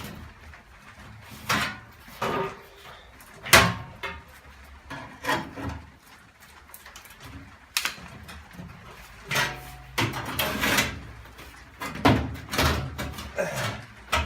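Irregular clunks and scrapes of a steel boot-floor repair panel being knocked and shoved into position on a classic Mini's rear end, about eight separate knocks with short pauses between.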